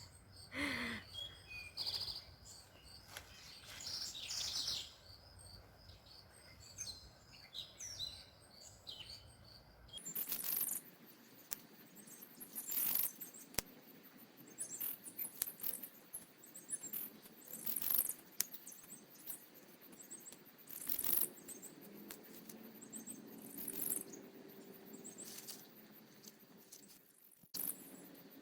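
Songbirds chirp faintly for the first several seconds. Then come irregular sharp snaps and crackles, a second or two apart, as crisp kale leaves are picked and handled.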